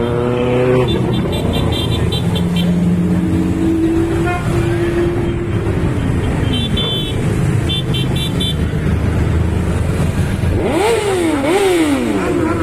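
Motorcycle engines running, with two quick revs of the throttle, each rising and falling in pitch, about eleven seconds in. Twice a rapid, high-pitched beeping like horn toots sounds over the engines.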